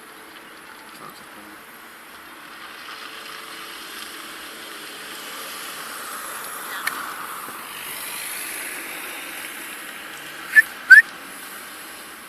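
Steady outdoor traffic noise that swells as a vehicle passes, then two short rising whistled chirps near the end, the loudest sounds.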